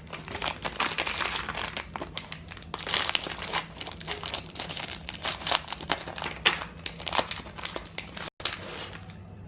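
Plastic snack wrappers crinkling in irregular bursts as small packets are handled and opened.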